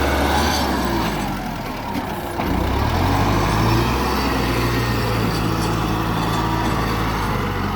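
Tractor engine running steadily, dipping slightly and then rising in pitch and level about two and a half seconds in.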